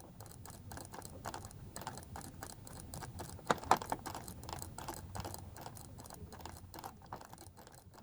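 Faint, irregular clicking and tapping from a computer input device as brush strokes are worked, with two sharper clicks about halfway through.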